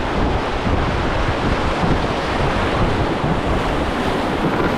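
Steady rush of whitewater from a river rapid, with wind buffeting the microphone.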